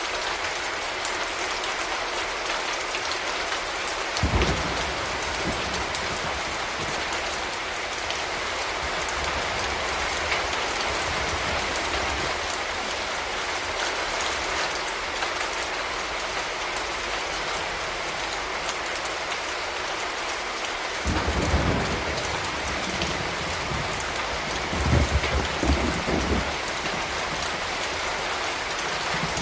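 Steady rain falling, with three short low rumbles: one about four seconds in and two more near the end.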